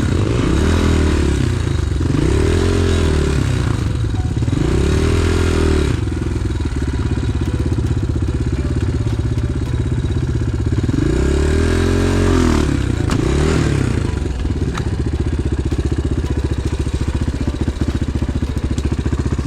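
Enduro pit bike engine revving up and dropping back about five times, with steady lower-rev running between the rises, as the bike works its way along a trail.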